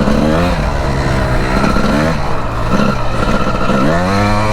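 Two-stroke Honda 250 dirt bike engine revving hard under way, its pitch climbing and dropping several times as the throttle is opened and closed.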